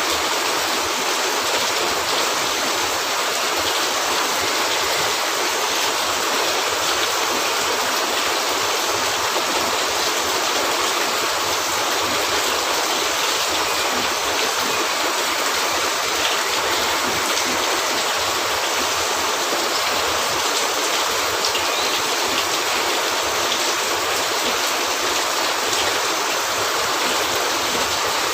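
Steady rain: an even, dense hiss with faint scattered ticks.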